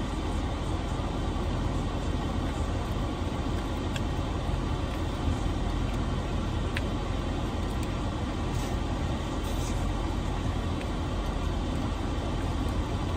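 Steady low rumble of a car idling, heard from inside the cabin, with a few faint clicks over it.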